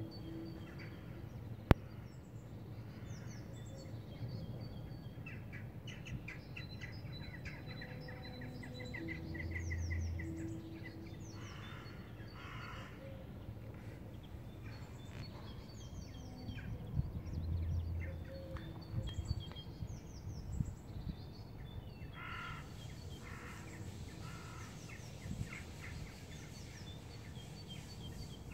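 Birds chirping and trilling with crows cawing, while a low, droning tone of unknown origin sounds twice for about a second each: the strange 'trumpet' sound from the sky. A single sharp click comes near two seconds in.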